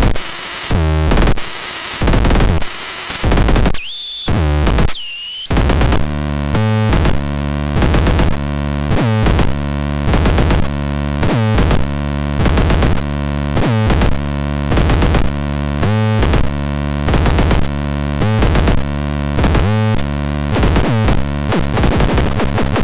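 Experimental synthesizer playing a harsh, noisy rhythmic pattern that pulses about once a second, with two rising sweeps about four and five seconds in.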